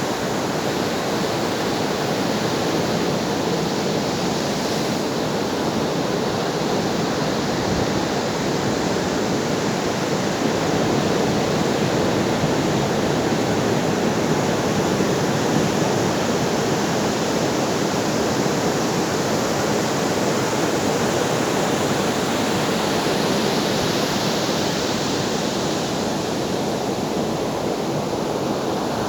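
Ocean surf washing continuously onto a shore: a steady rushing hiss of breaking and receding waves, with only slight swells and no separate crashes.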